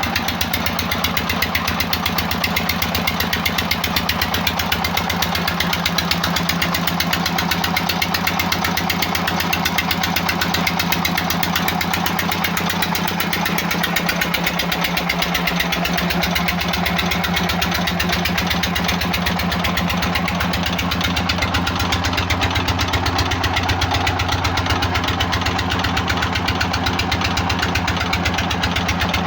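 18 hp tubewell diesel engine running steadily with an even, rapid firing beat.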